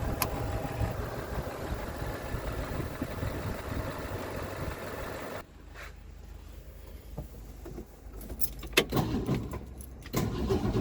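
Starter cranking the 1964 Mercury Comet's engine without it catching. The cranking cuts off suddenly about halfway through, then short bursts of cranking come back near the end.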